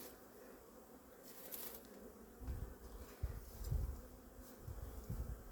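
Honeybee colony buzzing steadily in an opened hive, a agitated hum that is the sign of a disturbed colony. A few low dull thumps come in during the second half.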